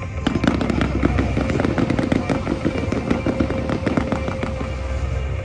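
Fireworks crackling and popping in a rapid, dense run over a low rumble, thinning out after about three and a half seconds.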